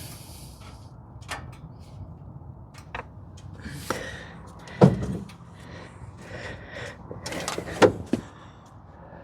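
Spark plug wires being pushed and reseated on a V8's distributor cap: scattered clicks and knocks of plastic and metal, the loudest just under five seconds in and again near eight seconds, with a short hiss at the start. The wires were being reseated because a loose connection made the cylinders misfire.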